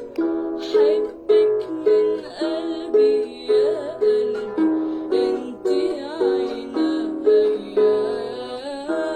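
Instrumental interlude of a song on a plucked string instrument, notes picked in a steady rhythm of nearly two a second.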